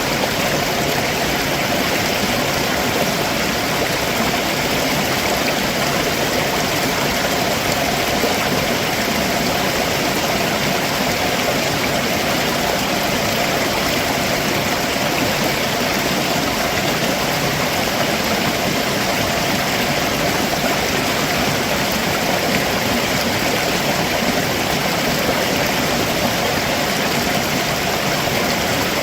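Stream water running over rocks below a waterfall: a steady, unbroken rushing.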